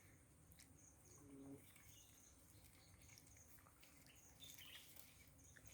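Near silence, with faint, short, high bird chirps repeating in the background.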